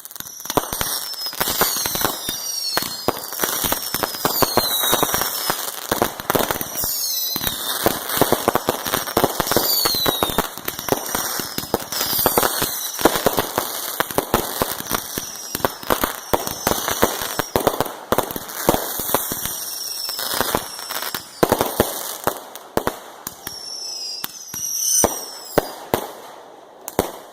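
Fireworks going off without a break: a dense run of sharp crackling pops, with many high whistles that fall in pitch, one after another.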